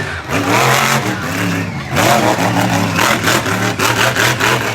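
Monster truck engine revving hard, its pitch rising and falling repeatedly.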